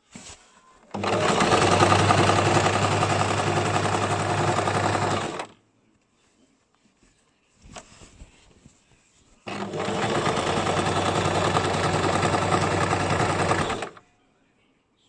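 Basic domestic sewing machine stitching in two steady runs of about four and a half seconds each, stopping for a few seconds in between with a few small clicks.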